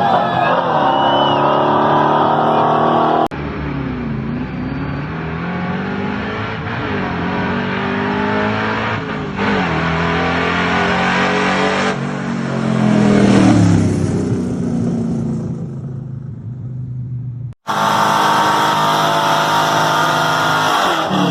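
Dodge muscle car engines revving and running, their pitch rising and falling repeatedly, in several clips cut together with sudden jumps in sound about three seconds in and again near the end.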